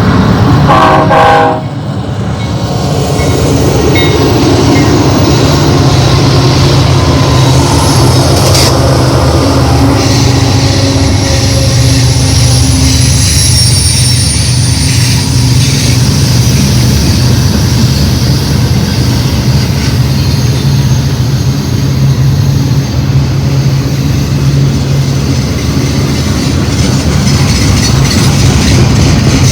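BNSF diesel locomotive's horn sounding and cutting off about a second and a half in. A long intermodal freight train follows with a steady, loud rumble of wheels on rail and thin high-pitched wheel squeals through the middle.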